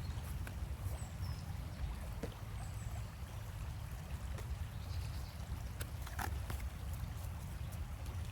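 River water flowing under a steady low rumble, with a few faint clicks and taps.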